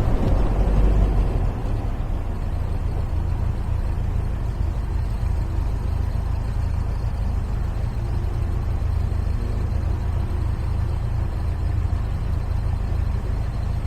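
MGA roadster's four-cylinder engine running steadily on the road, a low drone with road and wind noise over it. It is a little louder for the first second and a half, then settles to an even level.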